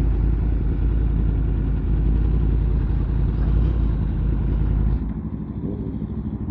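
Sport bike engine running steadily under way, heard from the rider's own bike, with wind rush; it drops quieter about five seconds in.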